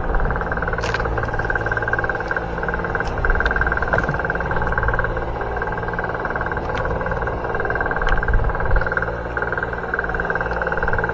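A boat's engine running steadily with a constant drone, with a few light clicks and knocks here and there.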